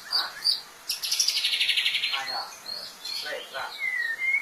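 White-rumped shama singing: a run of varied short whistled notes with a rapid buzzy trill lasting about a second, starting about a second in, and a clear whistle near the end.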